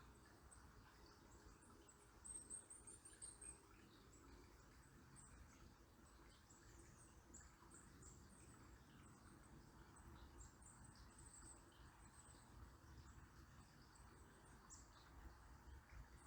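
Faint, steady babble of a river with small birds giving thin, very high-pitched calls throughout, including a quick run of high notes about two seconds in.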